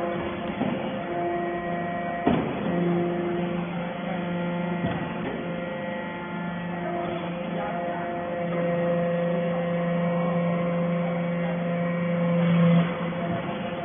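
Hydraulic metal-chip baler running with a steady electric hum, the hum growing stronger about three seconds in and easing off near the end, with a sharp knock early on the way.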